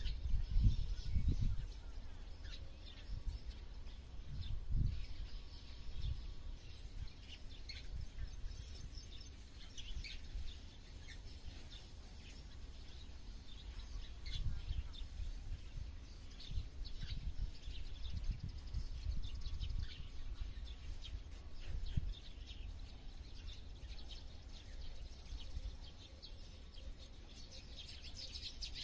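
Wild birds chirping and calling in short scattered notes, several at once, over an irregular low rumble that swells and fades, strongest in the first two seconds.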